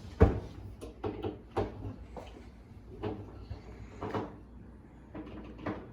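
A string of short, irregular knocks and clacks of something being handled, the loudest about a quarter second in.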